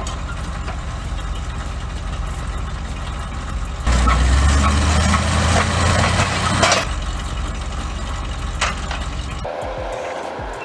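A heavy engine running steadily. It grows louder for about three seconds in the middle, with a few sharp cracks, then settles back.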